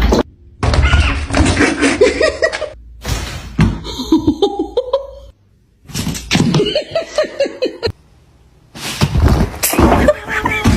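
People's voices and laughter, with a few thuds, in short segments that cut off abruptly every second or two.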